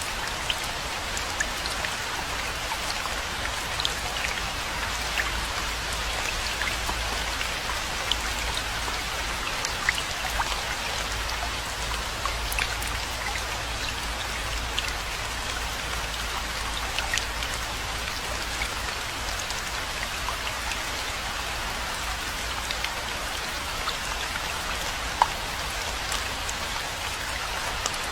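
Steady rainfall, a constant hiss of rain with many separate drops ticking sharply throughout, over a low rumble.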